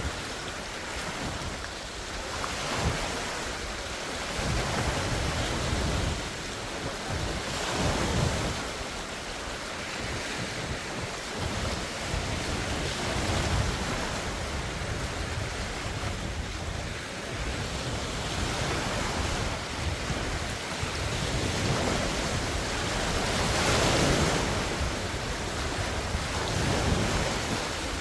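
Large wind-driven lake waves breaking and washing ashore in surges every few seconds, with wind buffeting the phone's microphone.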